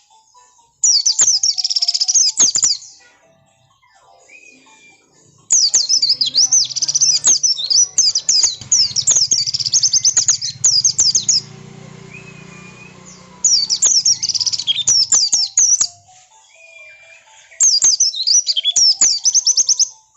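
White-eye (pleci) song: rapid, high, chattering phrases in four loud bursts with short pauses between, the insistent 'ngotot' song used as a lure to make caged white-eyes answer. A faint short slurred whistle recurs in the pauses.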